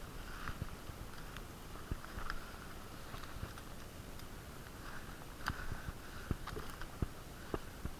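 Heavy breathing through a stuffed-up nose close to the microphone, a breath every couple of seconds, with scattered sharp clicks and knocks, more of them in the second half.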